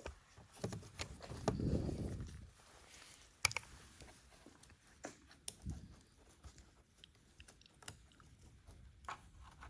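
Handling noise of parts and tools during reassembly: scattered light clicks and taps, a short rustle about a second and a half in, and one sharper click about three and a half seconds in.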